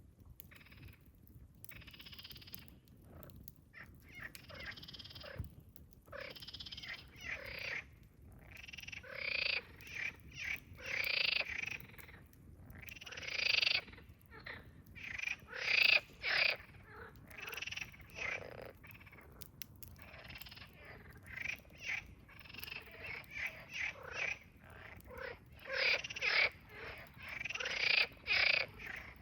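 Frogs croaking at the lake, a run of short rasping croaks in irregular bursts that grow busier and louder after the first few seconds.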